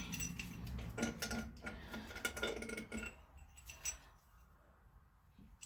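Metal clicks and clinks of a socket wrench and steel head bolts as the cylinder-head bolts are taken out of a V8 engine, dying away to a few faint ticks after about three seconds.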